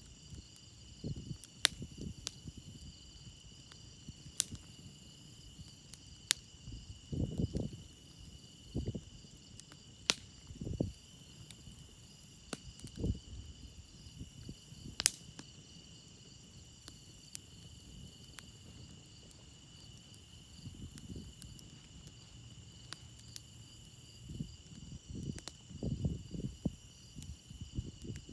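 Wood campfire crackling, with sharp scattered pops, over a steady chorus of crickets. Now and then a soft, low rush of sound swells for a second or so.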